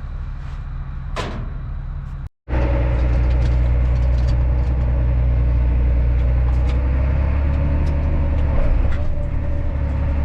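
Heavy vehicle engine running steadily with a low drone. About two seconds in it cuts out briefly, then continues louder.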